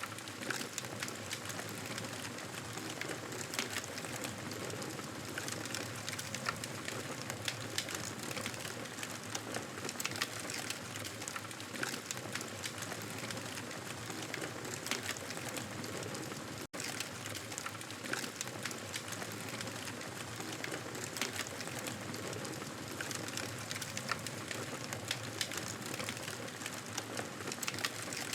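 Wood fire crackling in a fireplace: a steady hiss dotted with frequent small pops and crackles. The sound cuts out for an instant a little past halfway.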